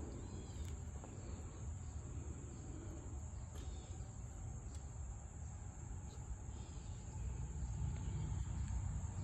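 Crickets trilling steadily in a high, unbroken tone over a low rumble, which grows louder near the end.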